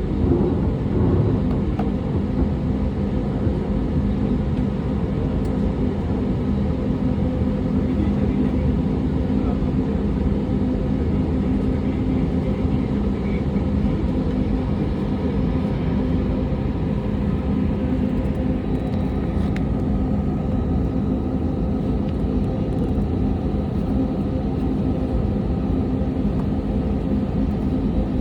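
Steady drone inside an airliner cabin: the jet engines and airflow give a constant low rumble with a steady hum.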